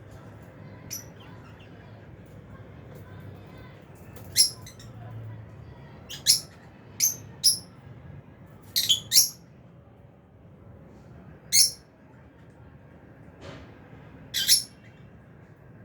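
Lovebirds in an aviary giving short, shrill chirps and squawks, about ten calls scattered at irregular intervals, with a low steady hum underneath.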